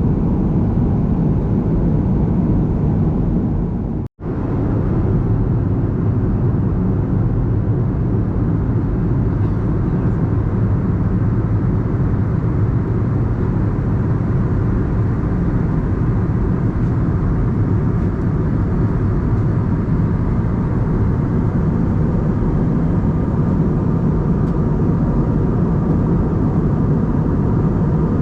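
Steady cabin noise inside an Airbus A320: a constant low rumble of engine and air noise, with a brief dropout about four seconds in.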